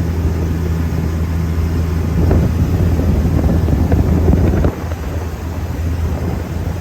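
Speed boat's engine running steadily under way, with wind rushing over the microphone. The rushing swells in the middle and drops suddenly about two-thirds of the way through.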